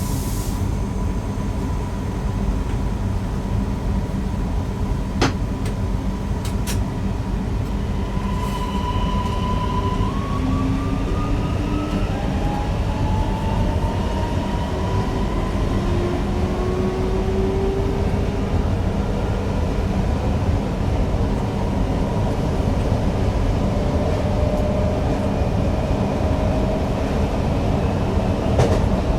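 Newag Impuls EN63 electric multiple unit running, heard from the driver's cab: a steady rumble under a constant tone, with several whines rising in pitch in the middle as the train picks up speed. There is a sharp click about five seconds in.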